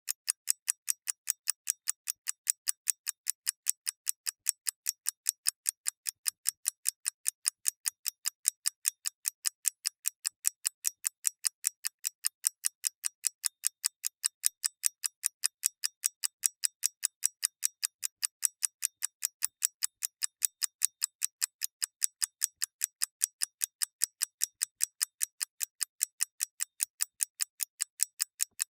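A mechanical clockwork movement ticking: a fast, even run of crisp, high clicks, several a second, with no low thud behind them.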